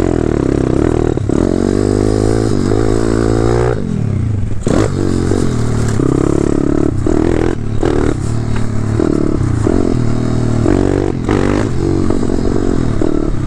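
Pit bike's 190cc single-cylinder four-stroke engine revving hard, its pitch climbing and dropping several times as the throttle is opened and chopped.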